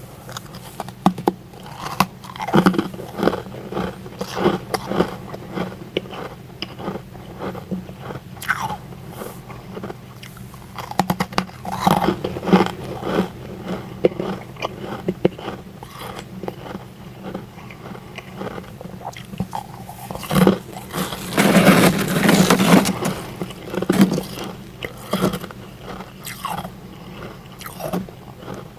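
Close-miked biting and chewing of powdery freezer frost: irregular crisp crunches, with a dense, louder run of crunching a little past two-thirds of the way through. A steady low hum lies underneath.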